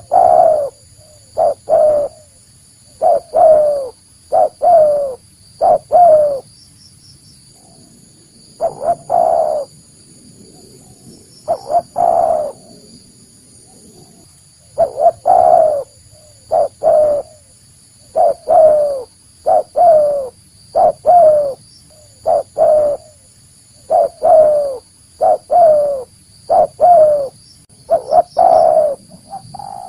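Spotted dove (tekukur) cooing: loud, repeated phrases of short, clear coo notes separated by brief pauses, the bird's natural call as used for luring other doves in.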